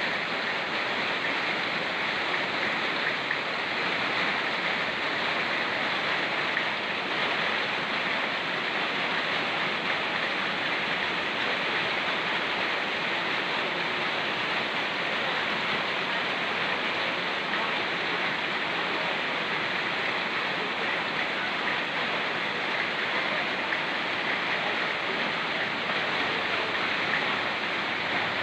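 Rain falling steadily together with a fast-flowing mountain river, making one continuous, even rushing hiss with no breaks or single events.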